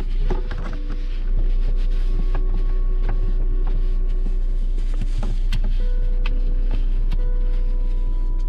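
Steady low rumble of a car's engine idling, heard inside the cabin, with scattered small clicks and rustles as a puppy eats from a plastic food tub on the seat.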